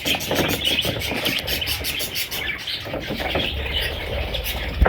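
Budgerigar chicks chirping continuously in a dense run of short, high calls. A single thump near the end.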